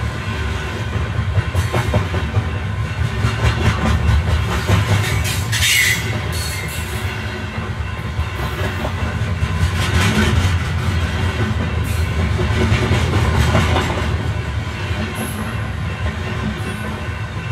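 Train running on rails: a steady low rumble with the clatter of wheels over the track, and a brief high-pitched screech about six seconds in.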